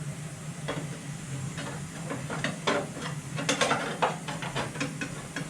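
Irregular light clicks and scrapes of a sheet-metal repair piece being handled and test-fitted against a van's cross member, over a steady low hum.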